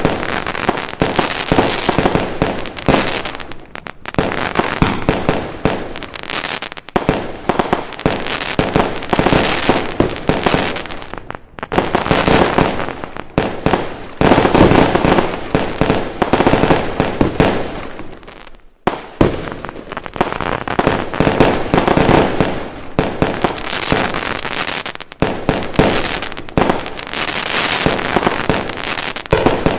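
Fireworks going off in a dense, continuous barrage of bangs and crackling, with brief lulls about a third and two-thirds of the way through.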